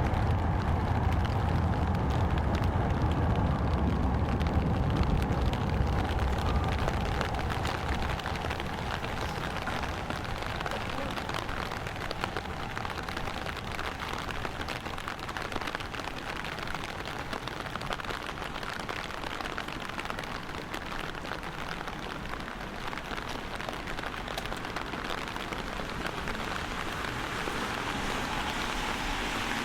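Steady rain pattering on surfaces, a dense crackle of drops. A passing vehicle's low rumble fades out over the first several seconds.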